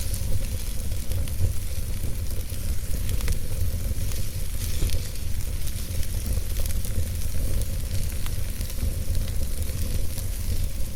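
Campfire burning: a steady hissing crackle with scattered sharp pops from the burning wood, over a constant low rumble.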